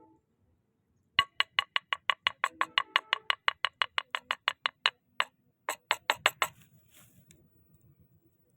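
A fast, even run of sharp knocks with a ringing pitch, about six a second for about four seconds, then a few more spaced knocks.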